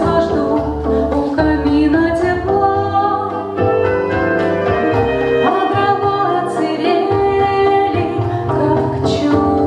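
A song: a voice singing a melody over instrumental accompaniment.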